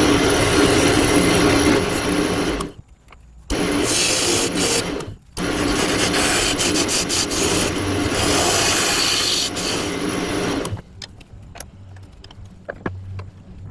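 A turning tool cutting into the walnut base of a bowl spinning on a wood lathe, a loud scraping rasp in three cuts with two brief pauses, as the chuck recess is cut. A little before the end the cutting stops and only the lathe's low motor hum is left.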